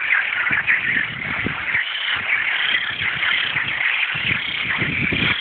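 A dense chorus of frogs calling, many overlapping calls forming a continuous high trilling mass: male frogs' mating calls.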